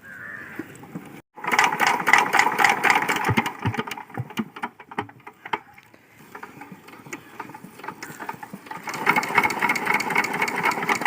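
Diesel water-pump engine running with a rapid, even clatter. It drops quieter for a couple of seconds around the middle, then comes back up loud near the end.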